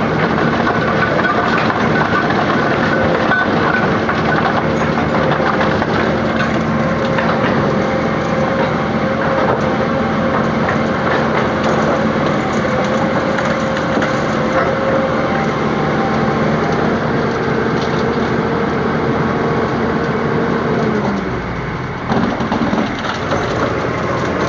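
Rubble Master RM 60 mobile impact crusher running under load, breaking large chunks of concrete. A steady machine hum runs under constant cracking and crunching. Near the end the hum drops in pitch and the noise dips for a moment before the cracking picks up again.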